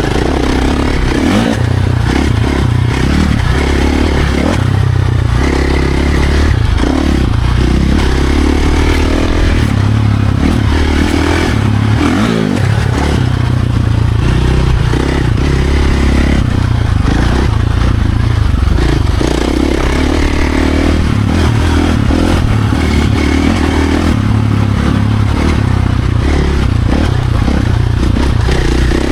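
Dirt bike engine being ridden hard on trails, revving up and down with its pitch rising and falling again and again.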